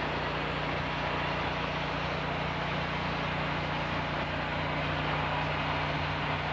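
Sawmill machinery running steadily: a constant motor drone with an even hiss over it.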